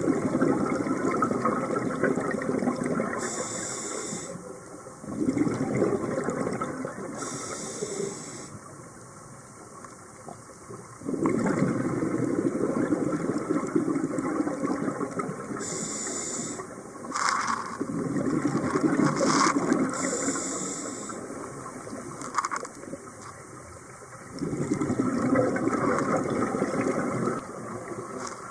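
Scuba diver breathing through a regulator underwater: long bubbling exhalations alternate with short hissing inhalations, about five breaths in a steady cycle.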